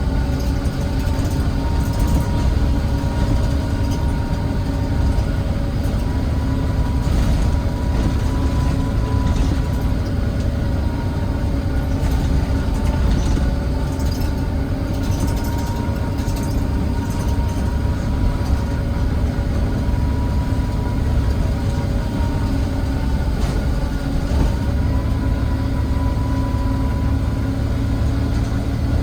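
Volvo B9TL double-decker bus's D9B diesel engine running under way, heard from the back seat: a steady low drone with a thin whine above it that dips briefly about 24 seconds in, and light rattles now and then. The whine is the kind of odd noise the uploader finds on these older buses and wonders is a sign of wear.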